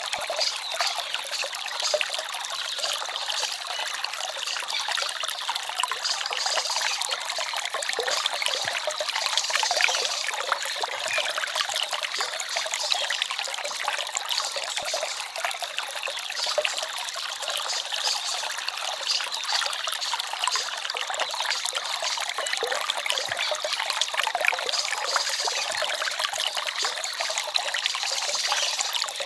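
Small forest stream babbling and trickling over stones: a steady, bright splashing hiss with little low rumble.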